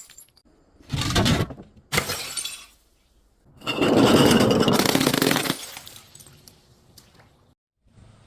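Glass shattering three times: two short breaks, then a longer crash whose crunching tails off over a second or two.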